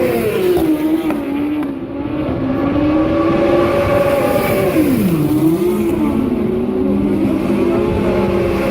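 Racing motorcycle engines running at high revs, the pitch dropping early on, holding steady, then dipping sharply a little past the middle before climbing again as the bikes slow and accelerate.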